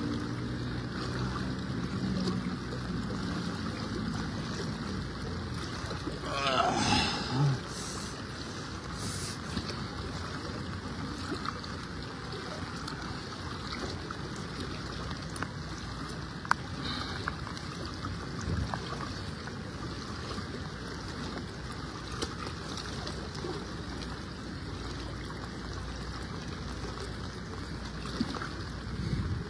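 Steady rush of floodwater and heavy rain. A low hum in the first few seconds and a brief wavering pitched sound about six to seven seconds in rise above it.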